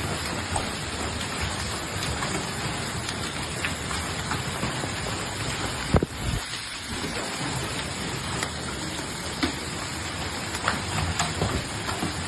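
Heavy storm rain pouring steadily, with scattered sharp taps and one loud knock about six seconds in.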